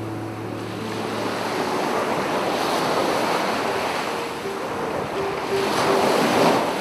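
Sea waves washing onto the shore in a steady rushing surf, swelling to a louder surge about six seconds in and then falling back.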